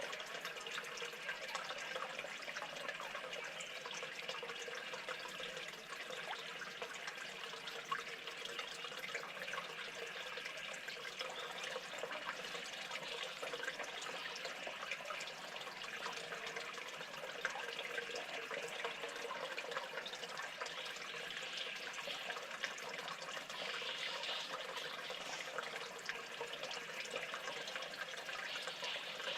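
Steady trickling water, with small drips and splashes on a continuous wash of noise.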